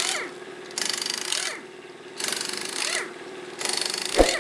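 Slow, repeated rasping strokes, about one every one and a half seconds, over a steady hum.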